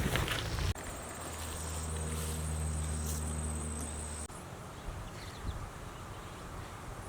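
Outdoor ambience with insects chirping: a steady high pulsing trill, later a few short high chirps. A low steady motor hum sounds for about three and a half seconds, starting and stopping abruptly.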